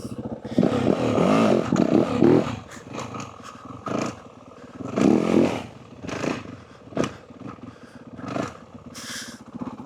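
Yamaha WR450F dirt bike's single-cylinder four-stroke engine revving in bursts while the rider practises wheelies: a long rev about a second in, another around five seconds, and shorter throttle blips between.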